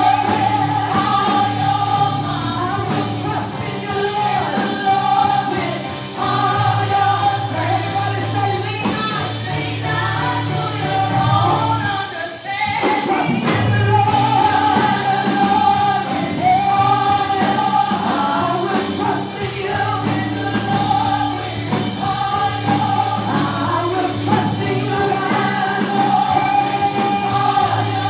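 Gospel choir singing a worship song in held notes over a band with a steady bass line. The sound thins briefly about halfway through.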